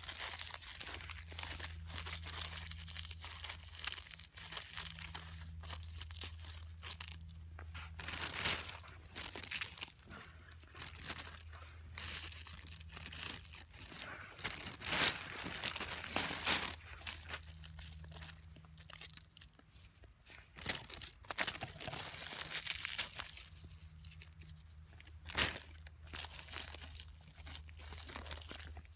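Irregular crinkling, tearing and crunching as oyster mushrooms and their plastic-bagged growing blocks are handled and picked, over a low steady hum.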